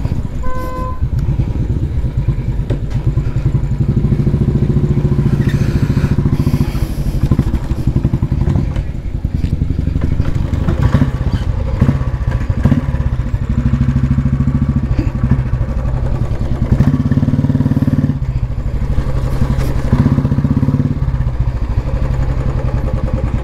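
Royal Enfield Bullet single-cylinder motorcycle engine running under way, its revs rising and falling several times with the throttle. A short horn beep sounds about half a second in.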